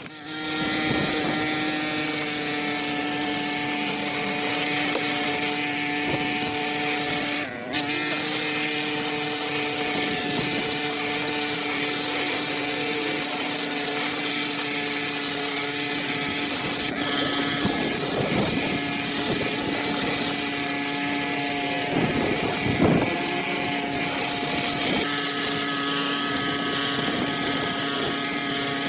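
A motorised machine running steadily, giving an even hum with a hiss over it; the sound drops out briefly about seven and a half seconds in.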